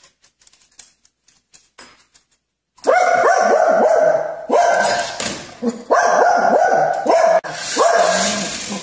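Dog barking over and over from about three seconds in, after a near-silent start.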